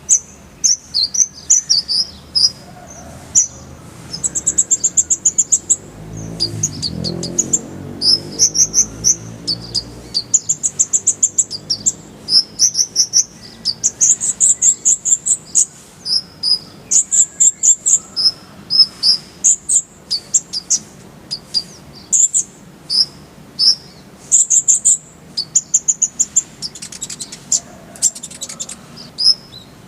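Kolibri ninja sunbird singing a fast, high-pitched string of chirps and short rattling trills, varied phrases following one another with hardly a pause.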